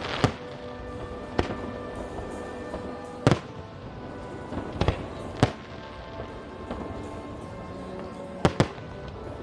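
Fireworks shells bursting in sharp bangs at irregular intervals, about seven in all, including a quick pair near the end, over steady background music.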